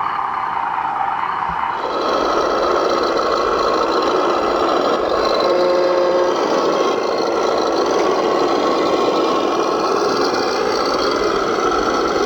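Steady grinding, scraping noise of an electric RC construction model at work, getting louder about two seconds in.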